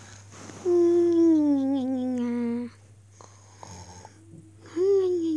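A long drawn-out vocal moan, sliding slowly down in pitch for about two seconds, then a second shorter one that rises briefly and falls near the end.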